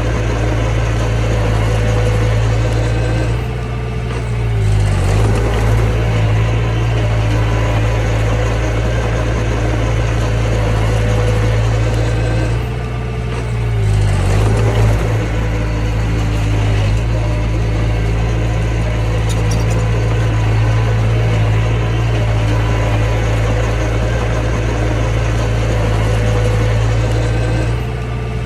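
Mini bulldozer's diesel engine running steadily at high revs. Three times, about every nine seconds, it dips briefly in pitch and level, then picks back up.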